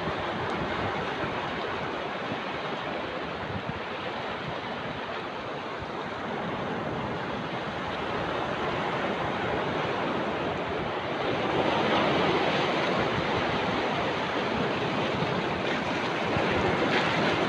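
Steady rushing water, like surf breaking, that swells louder about twelve seconds in.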